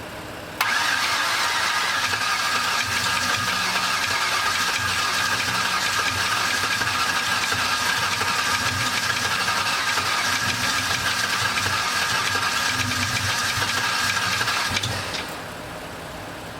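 Starter cranking a Lincoln Aviator 4.6-litre DOHC V8 for about fourteen seconds on its first start attempt, a steady starter whine over uneven low pulses; the engine is trying to fire but does not catch. The cranking starts abruptly and stops about fifteen seconds in.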